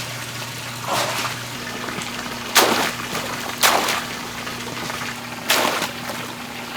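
Wet oysters being thrown in, four splashy crashes about one to two seconds apart, over a steady low hum.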